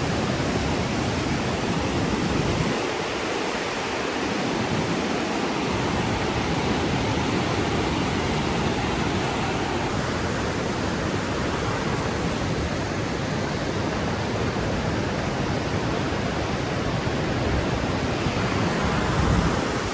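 Steady rushing of the Niagara River's white water, an even, unbroken noise of fast-moving water.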